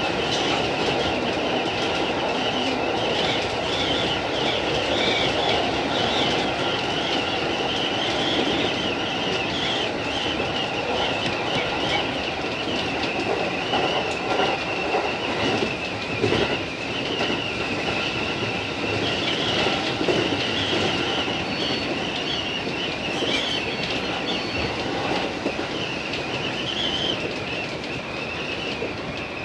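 JR East 205 series electric train running along the track, heard from inside the leading car: steady running noise with rail clatter and a high, wavering wheel squeal throughout, easing slightly near the end.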